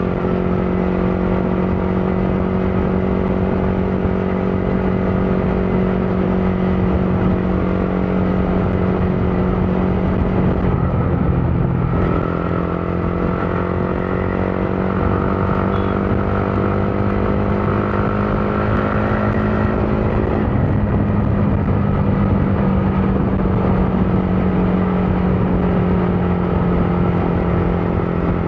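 Motorcycle engine running steadily while riding in traffic. The engine note breaks and changes pitch briefly twice, about eleven and about twenty seconds in.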